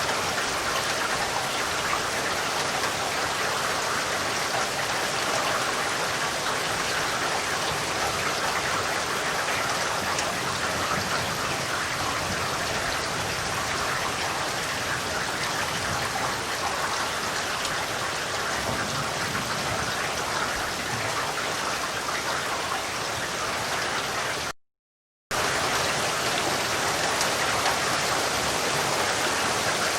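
Steady, dense rainfall with a constant patter of raindrops on surfaces. The sound cuts out abruptly for under a second near the end, then resumes.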